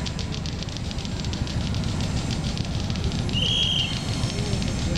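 Low running rumble of trains moving over the tracks: an electric commuter train and a diesel-hauled passenger train. A brief high-pitched squeal comes about three and a half seconds in.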